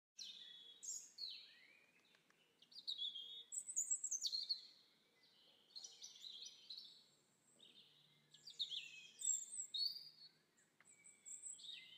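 Birds chirping faintly in short bursts of quick, high notes that slide downward, with brief quiet gaps between the bursts.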